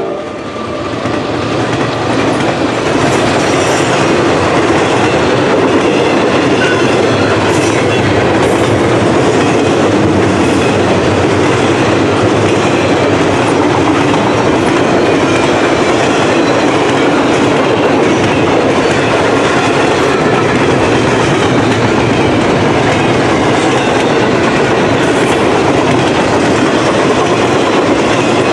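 Long intermodal freight train rolling past at speed: a steady, loud rumble and clatter of steel wheels on rail, with the rhythmic clickety-clack of wheels over rail joints.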